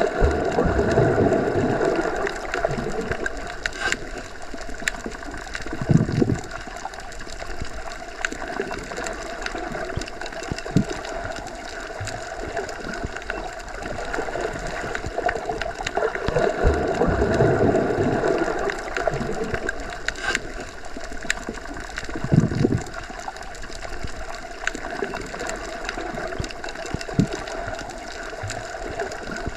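Underwater ambience as heard submerged in a pool or lake: muffled rushing water with a steady hum running through it. The sound swells twice, and there are a couple of short low thuds.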